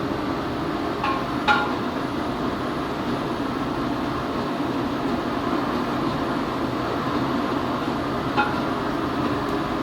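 Steady rumbling cooking noise from a large pot on the burner, with a metal spoon striking the pot a few times, each strike ringing briefly.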